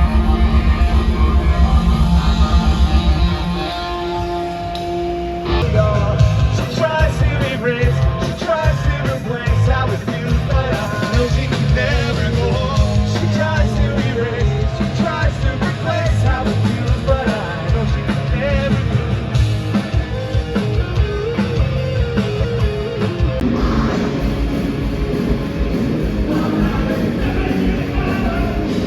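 Live heavy rock band playing loud, with distorted guitars, fast pounding drums and shouted vocals. The band drops to a sparse passage of a few held notes about three seconds in, then crashes back in full a couple of seconds later.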